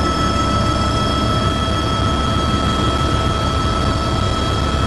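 Helicopter turbine engine and rotor running steadily, heard from inside the cabin: a loud, even rush with a steady high whine.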